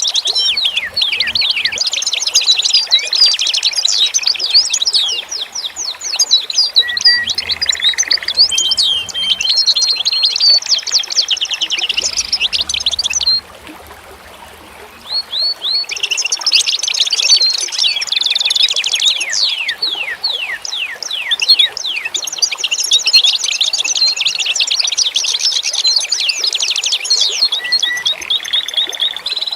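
Songbirds singing in a dense chorus of rapid, down-sweeping chirps and trills, with a lull of a couple of seconds about halfway through. A faint steady hiss runs beneath.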